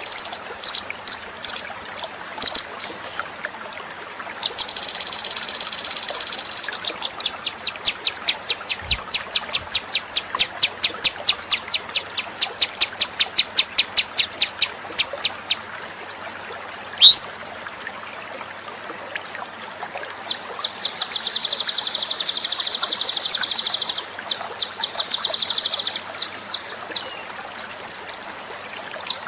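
Songbird song recorded for masteran training: sharp high chirps, a rapid buzzing trill, then a long run of evenly spaced chirps at about five a second. Near the middle comes one quick sweeping whistle, and the second half holds long, fast buzzing trills broken by short gaps.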